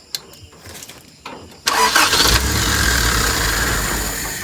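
Toyota 4K four-cylinder carbureted engine starting: it catches suddenly about a second and a half in and keeps running with a steady low rumble. This is its first run on a newly fitted carburetor and contact-point distributor after standing unused for over three years.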